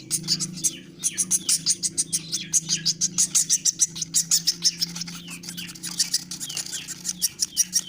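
Woodpecker nestlings begging while being hand-fed with bird feed: rapid, continuous high chirps, about six or seven a second, with short falling notes mixed in. A steady low hum runs underneath.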